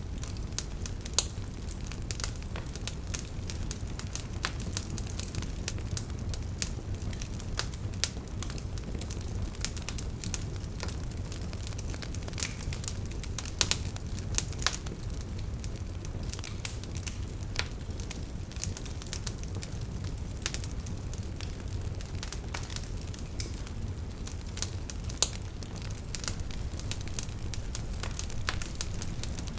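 Wood campfire burning with a steady low rumble, crackling with frequent irregular snaps and a few louder pops.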